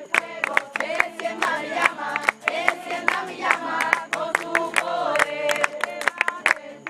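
A group of voices singing together, with hand clapping throughout, typical of a campfire song.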